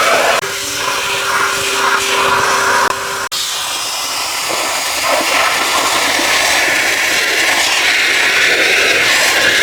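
Steady rushing hiss of car-cleaning equipment at work, with a steady motor hum under it for the first few seconds. The sound breaks off for an instant twice.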